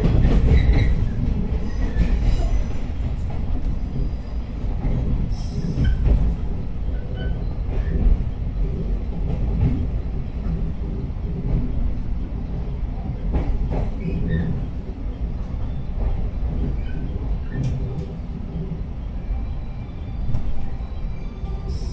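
A 115-series electric train running slowly, heard from inside the car: a steady low rumble with scattered knocks from the wheels crossing rail joints and points, and faint brief wheel squeal.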